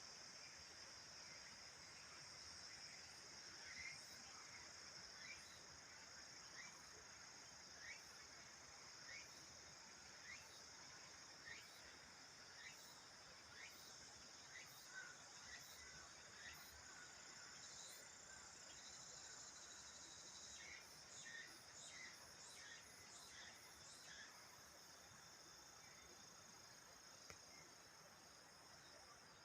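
Faint outdoor insect chorus, a steady high drone, with a short chirp repeating about once a second through most of the stretch.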